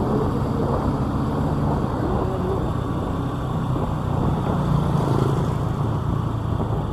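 Motorcycle engine running steadily while riding, a low hum with road noise, swelling briefly about five seconds in.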